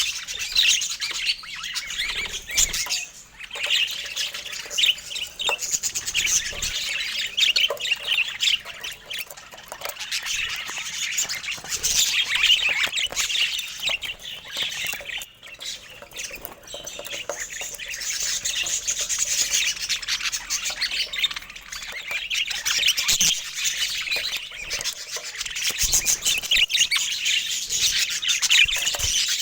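Budgerigars chirping and chattering without pause: a dense, busy stream of quick high chirps.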